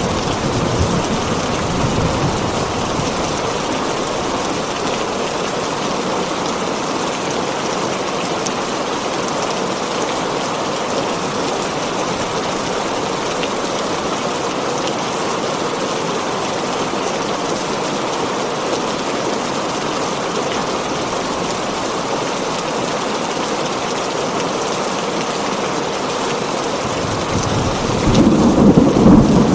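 Heavy rain drumming steadily on a tin roof, with a low rumble of thunder in the first couple of seconds and a louder one building near the end.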